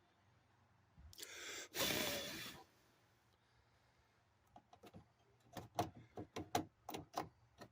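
Aerosol super glue activator sprayed in one hiss of about a second and a half, starting about a second in. Later comes a run of light clicks and taps on the plastic part.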